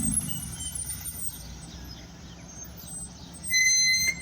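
BMW M2 squeaking: a loud, steady, high-pitched squeal lasting about half a second near the end, over the low rumble of a car engine.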